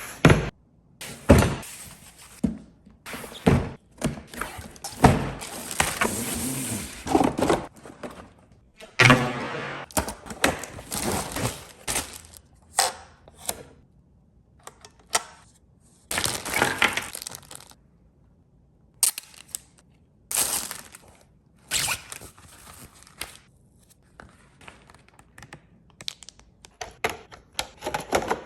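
A string of irregular thumps and knocks, with short rattling rushes of noise between them, from a 1/10-scale RC monster truck bumping and banging about.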